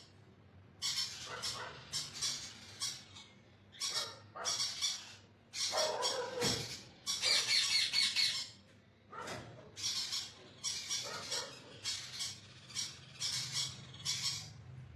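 Parrot squawking over and over in a run of short, harsh calls, with one longer, louder screech about halfway through.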